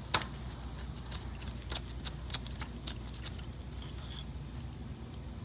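Irregular sharp clicks and light knocks, the loudest just after the start, over a low steady hum.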